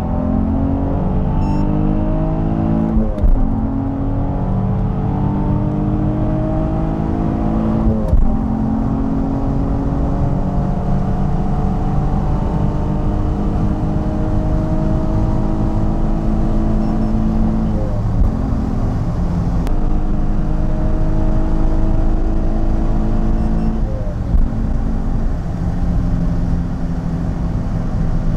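Nissan 350Z's 3.5-litre V6 at full throttle during a 100–200 km/h acceleration run, heard inside the cabin. The engine note climbs steadily in pitch, dropping sharply at each upshift, about four times.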